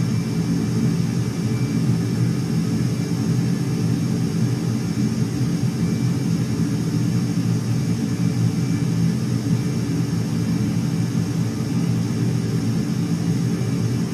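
Aircraft engines running, a steady low rumble with a faint high whine above it, unchanging in level and pitch.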